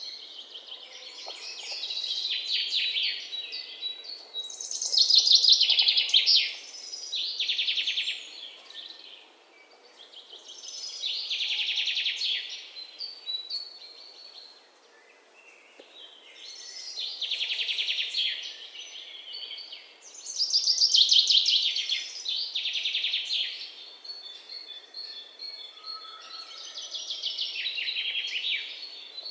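Songbird song: rapid trilled phrases repeated every four to six seconds, with quieter chirps in the gaps between them.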